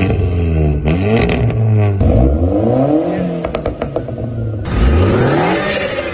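Car engine revving through a custom exhaust, its pitch climbing and falling in repeated blips, with a few sharp cracks between revs. The sound changes abruptly twice, as if separate clips are spliced together.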